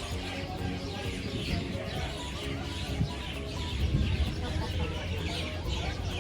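Birds chirping, many short calls in quick succession, over a steady low rumble.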